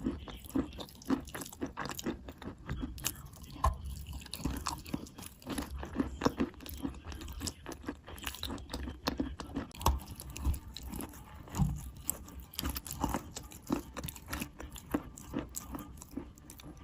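Close-up crunching and chewing of wet white chalk in the mouth: dense, irregular crackles and crunches, several a second.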